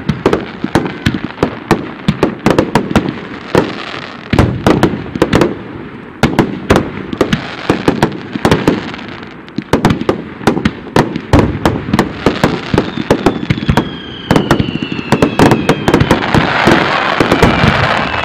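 Fireworks finale barrage: aerial shells bursting in rapid succession, many sharp bangs close together. Near the end a dense hiss builds under the bangs, with thin tones slowly falling in pitch.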